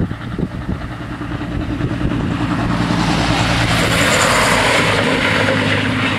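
A single diesel railcar passing close by at a level crossing. The engine drone builds as it approaches. The rumble and hiss of wheels on rail is loudest about four seconds in, then eases off as it moves away.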